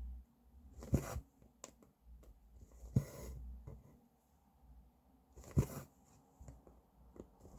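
Needle and thread being pulled through cross-stitch fabric: a short rasping pull about every two seconds, three in all, with faint handling of the hoop and fabric between them.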